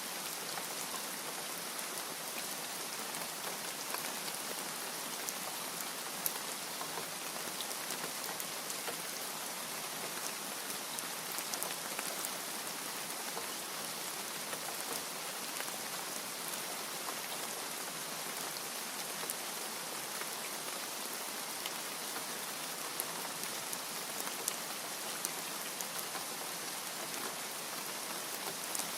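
Steady rain falling, an even hiss with many small drops ticking against a surface.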